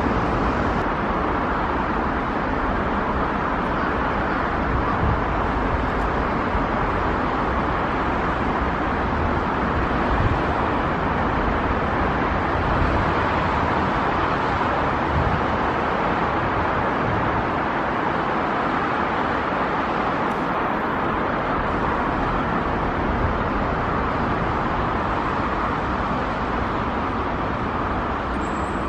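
Nankai 8300 series electric commuter train running along the track, a steady, even noise of wheels and running gear as it comes in and passes close by.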